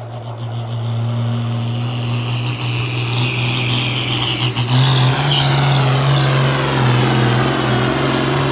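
Competition puller's engine held at full throttle during a pull down the track, dragging the weight sled. The note steps up and a high whine over it grows louder about halfway through.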